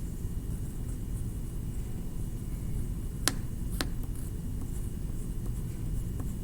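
Steady low rumbling room noise, with two sharp clicks about half a second apart a little over three seconds in.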